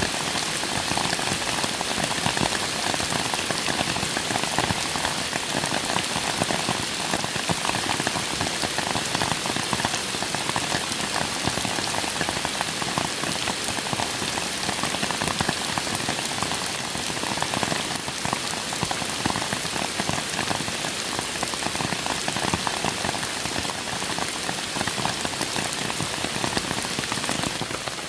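Steady rain falling, a dense, even hiss made of many close individual drop hits.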